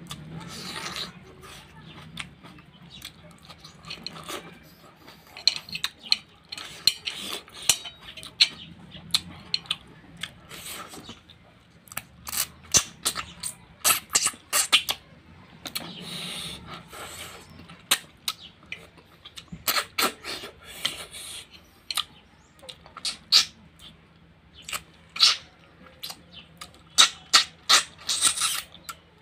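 Close-up eating sounds: wet chewing and repeated lip smacks as handfuls of rice and curry are eaten by hand, with many sharp clicks coming thicker in the second half.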